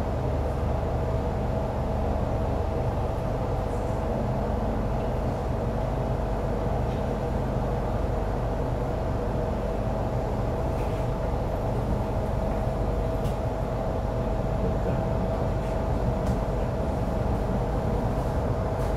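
Inside a stationary Metro Cammell M-Train (MTR C162, CM-Stock) held between stations: the car's steady idling hum with one constant tone above a low rumble, and a few faint clicks.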